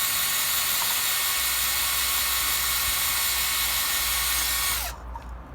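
Electric power drill running steadily at speed as it bores a hole into a coconut, then stopping about five seconds in.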